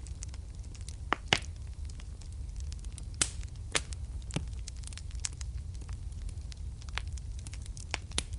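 Wood fire burning in a fireplace, crackling and popping over a steady low rumble, with a few louder pops about a second in and again after three seconds.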